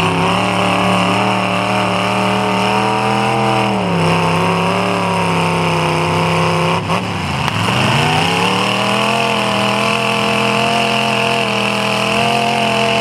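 Demolition derby car engines revving hard as the locked cars push against each other. The engine pitch drops about four seconds in, falls away sharply with a brief knock near seven seconds, then climbs back up and holds.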